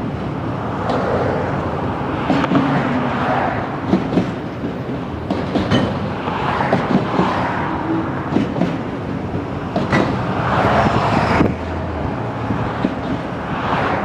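Loaded autorack freight cars rolling past on the rails, a steady rumble that swells and fades every few seconds, with sharp clicks of wheels over rail joints.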